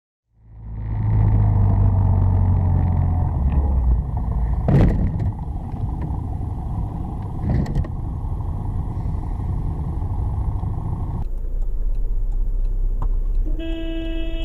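Steady low rumble of a moving vehicle picked up by a dash camera, with two sharp knocks about five and eight seconds in. The sound changes abruptly about eleven seconds in, and near the end a short steady pitched tone sounds for under a second.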